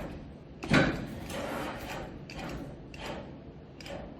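Claw machine mechanism running, with a sharp clunk about three-quarters of a second in, followed by several shorter stretches of mechanical noise.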